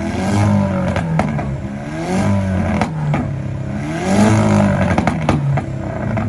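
Modified Volkswagen engine revved hard again and again, the pitch climbing and falling back in sweeps about every two seconds, with several sharp pops from the exhaust.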